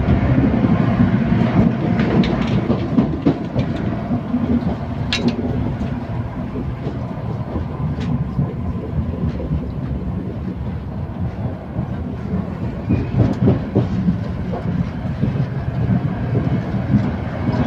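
Steady low rumble of a Talgo train running along the track, heard from inside the passenger carriage, with an occasional sharp click.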